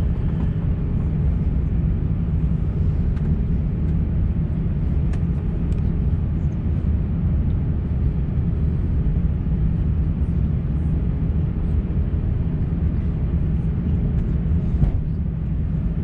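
Steady low rumble of an Airbus A350-900 heard inside the cabin from a window seat, with a few faint steady hum tones under it.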